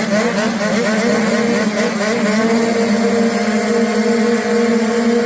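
Motocross bike engines running at high revs, holding a steady high pitch with other engine notes wavering over it.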